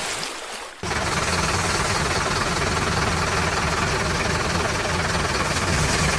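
Steady engine noise with a rough, low rumble. It starts after a brief drop-out of nearly a second at the beginning.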